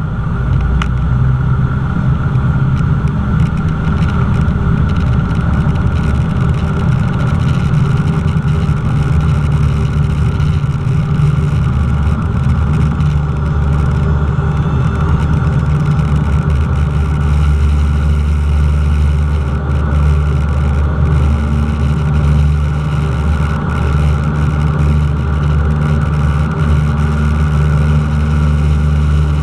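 Cessna 172's piston engine and propeller running steadily at power, with a deep low drone and a steady hum.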